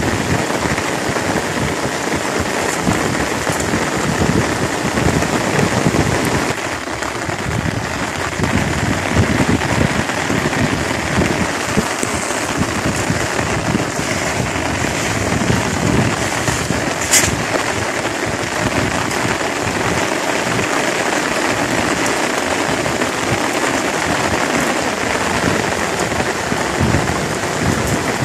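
Steady rain falling on a pond's surface, an even hiss. There is a single sharp click partway through.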